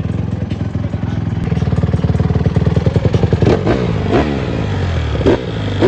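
Honda CRF150R's four-stroke single-cylinder engine running just after starting without the choke. It idles, picks up about a second and a half in, then is blipped with several quick revs in the second half.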